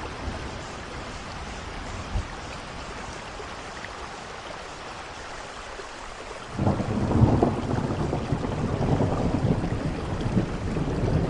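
Steady rain falling, then about two-thirds of the way through thunder breaks in suddenly and rolls on as a loud rumble over the rain.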